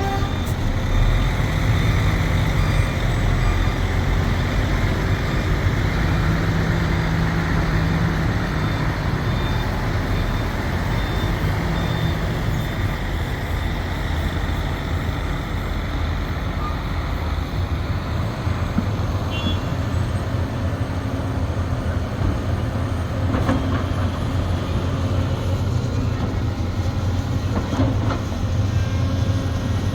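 Sumitomo SH370LHD-6 excavator working: its diesel engine and hydraulics give a steady low drone that shifts in pitch as the load changes, with a few faint knocks in the second half.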